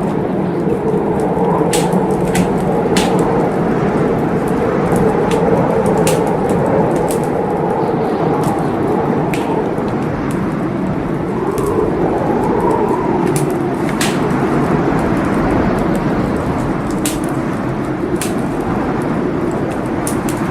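Wood fire burning in a fireplace: a steady rush of flames with sharp, irregular crackles and pops throughout.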